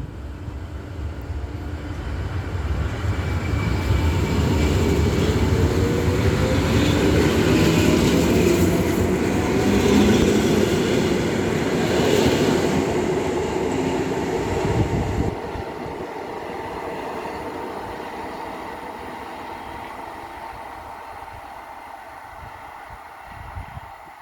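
Polregio EN57AL electric multiple unit pulling away, its traction motors whining in a steadily rising pitch over the rumble of wheels on the rails. The sound builds for the first few seconds, drops sharply about fifteen seconds in, then fades away.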